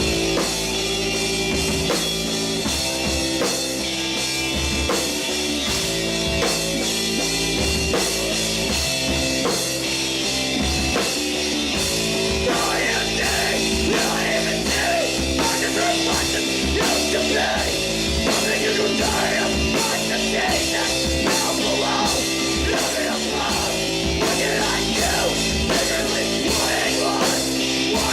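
Live rock band playing loud, with distorted guitars and a driving drum kit; about halfway through, a vocal line comes in over the band.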